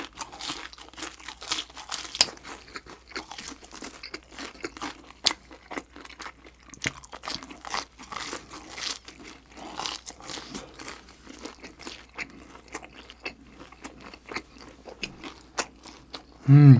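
Close-miked chewing of a crunchy fried dumpling: a steady run of crisp crunches and wet mouth clicks, ending in a brief vocal sound.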